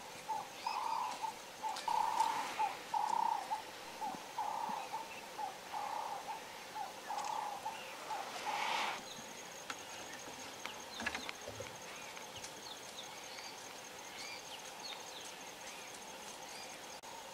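A bird calls a long series of short, hollow hooting notes, about two a second, fading until they stop about nine seconds in. Then a steady high insect whine sets in, with a few small bird chirps over it.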